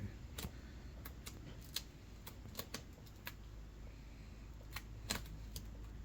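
Faint, irregular light clicks and taps of a plastic car headlight housing being handled while butyl sealant is pressed into its channel.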